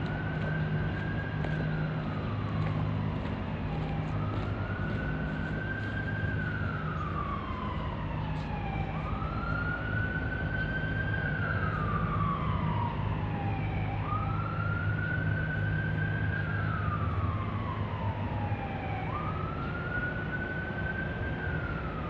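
Emergency vehicle siren wailing: a slow rise and then a long fall in pitch, repeating about every five seconds, over a steady low rumble.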